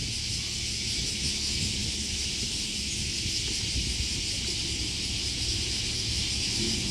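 Steady outdoor ambience: an even high hiss over a low, unsteady rumble, with no distinct events.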